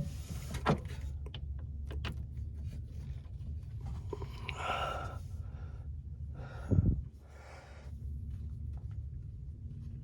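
Hand work at a side-post battery terminal: scattered clicks and clinks of tools and cable, a rustling scrape about four and a half seconds in, and a heavy thump near seven seconds, over a steady low hum.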